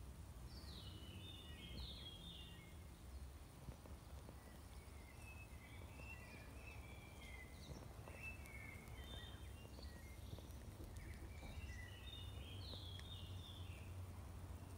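Faint songbird chirping in three short spells of quick, choppy notes, over a steady low background rumble.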